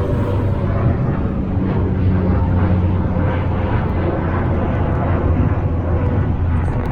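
Steady, loud low droning hum in the sky, with a few held low tones under a rushing haze.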